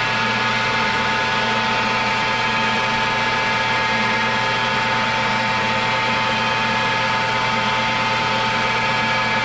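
Metal lathe running steadily with an even motor hum and whine, turning a small steel stem down to size.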